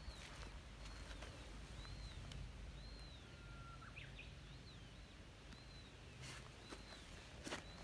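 Faint outdoor ambience: a bird repeating short, high chirps that rise and fall, about one a second, over a low rumble of background noise. A couple of soft clicks come near the end.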